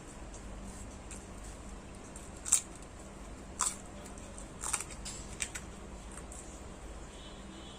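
Eating sounds from close up: four short, sharp mouth clicks of chewing spread over about three seconds in the middle, the first the loudest, over a low steady room hum.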